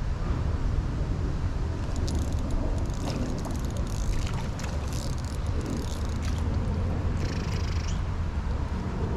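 River water moving around a wading angler, with a steady low rumble and light, scattered splashes and trickles from about two seconds in.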